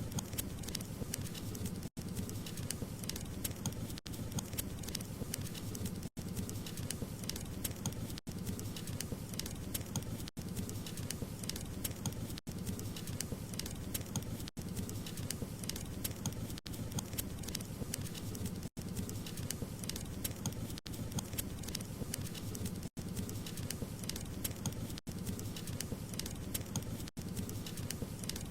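Wood fire crackling steadily: dense small pops and snaps over a low rumble of burning logs, broken by a very brief dropout about every two seconds.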